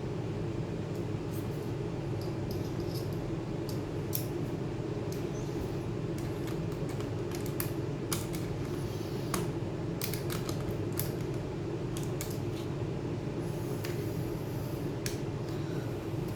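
Scattered small, sharp clicks and light metallic taps of hand tools and small parts being handled during laptop disassembly, over a steady low hum.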